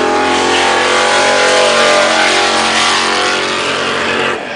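A car engine running steadily at an even pitch as the car drives past close by. The sound drops off sharply near the end.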